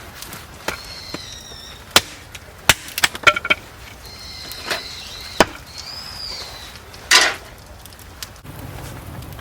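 Sharp, irregular wooden knocks and cracks of wood being chopped or split at a campsite, with a longer splintering crack near the end.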